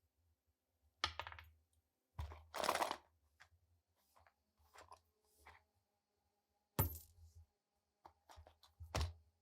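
Small metal pistol parts clicking and clinking against each other and a hard work surface: sharp knocks about one, seven and nine seconds in, with a longer rattling clatter around two to three seconds in.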